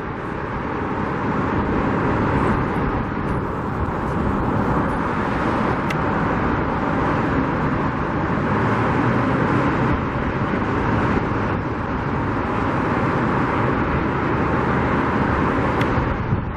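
Steady noise of road traffic, an even, unbroken hum with no single vehicle standing out.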